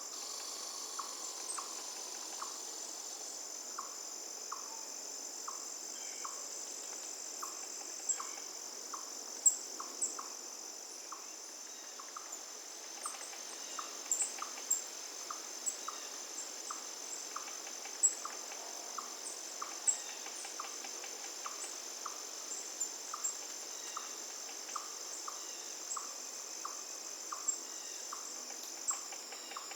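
Forest ambience: a steady, high-pitched drone of crickets or similar insects. A short, lower note repeats about twice a second, and brief high bird chirps come and go over it.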